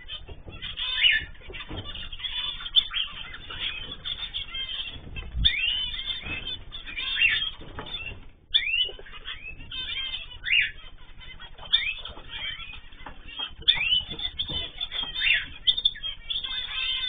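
Mixed cage birds (cockatiels, zebra finches and canaries) chirping and calling over one another: many short, mostly rising chirps, dense and continuous.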